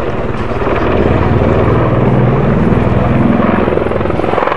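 Army Air Corps Apache attack helicopter in flight, its main rotor beating rapidly over the steady engine sound, growing louder about a second in and easing slightly near the end.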